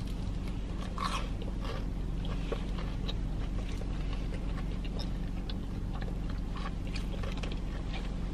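Crunchy bites and close-up chewing of a breadcrumb-coated Korean fried cheese stick, with a louder crunch about a second in and small crisp crackles as she chews, over a steady low hum.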